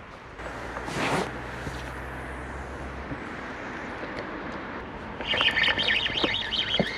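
A bird chirping in quick, wavering high notes for the last two seconds, the loudest sound here. About a second in there is a brief whoosh.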